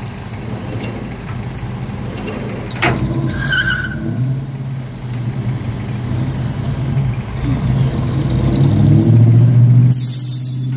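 A car engine running with a steady low hum that grows louder about four seconds in and again near the end, with a sharp click about three seconds in.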